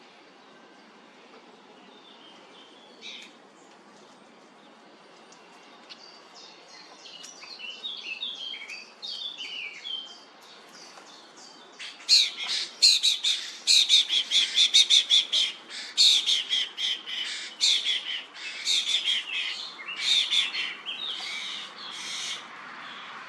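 Common starlings calling. There are a few scattered chirps at first, then a run of quick chattering calls, and from about halfway a loud, dense burst of harsh squawking calls, several a second, that goes on to the end.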